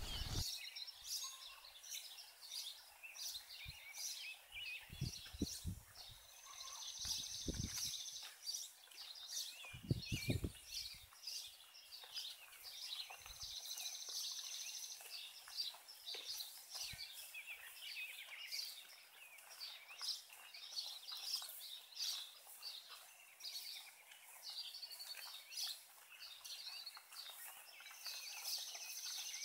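Birds chirping and singing in short repeated phrases, with a few brief low rumbles in the first half.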